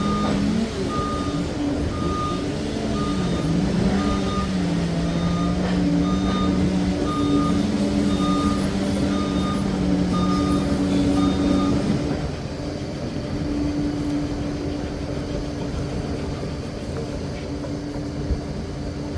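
Liebherr PR 746 crawler dozer's diesel engine running while its reversing alarm beeps about once a second. About twelve seconds in, the beeping and a wavering lower engine note stop, and the engine runs on steadily.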